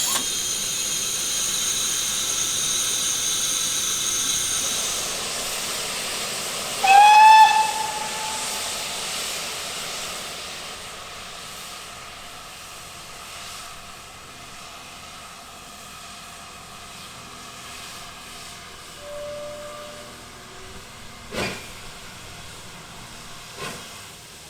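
Steam locomotive hissing loudly, then giving one short whistle blast about seven seconds in, the loudest sound here. The hiss then fades away, and two sharp knocks come near the end.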